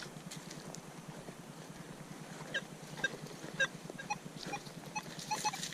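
Metal detector sounding short pitched target beeps as the coil sweeps the ground: a few scattered beeps, then a quick run of them near the end.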